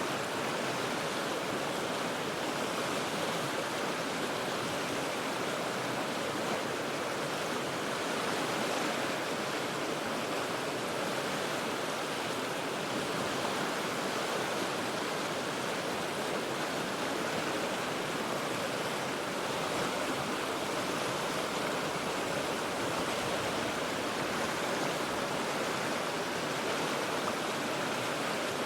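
River water rushing over rocks in a steady, unbroken wash of noise.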